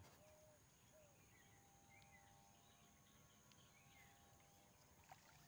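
Near silence: faint outdoor pond-side ambience with a few soft, short bird chirps scattered through it.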